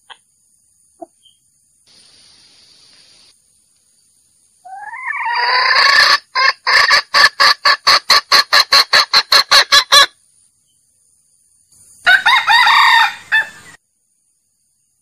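Male junglefowl calling: a rising crow that runs into a fast string of clucks, about four a second, then one more short crowing call near the end.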